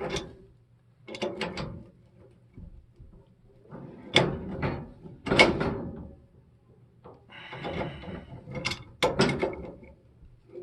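Adjustable wrench working threaded steel gas pipe and valve fittings: about six bursts of metal clicking and scraping as the wrench grips, turns and is repositioned, over a faint steady low hum.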